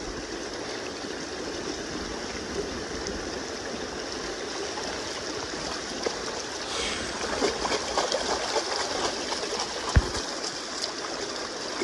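River current running steadily past the bank, with scattered small splashes and knocks in the second half and a single sharp thump near the end.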